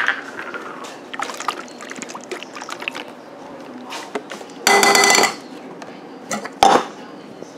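Liquid medicine being poured from a bottle into a bowl, with small clinks. About five seconds in there is a short, loud, pitched burst, and a sharp knock comes near the end.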